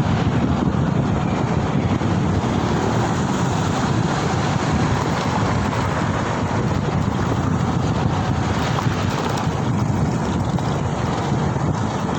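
Steady rush of wind buffeting the microphone while riding, an even, unbroken noise that covers any road or engine sound.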